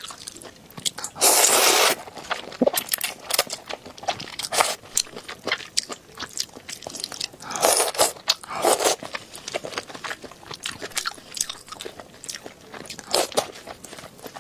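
Close-miked eating: repeated crunchy bites and chewing. Louder, longer noisy bursts come about a second in and again around eight seconds in.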